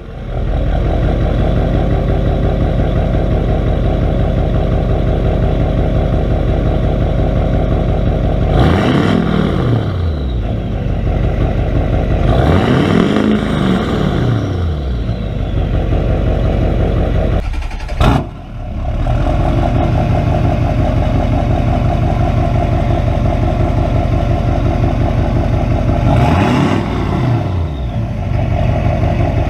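Chevy car engine idling through its exhaust with a new, larger tip, revved up and let back down three times, with a brief break about 18 seconds in.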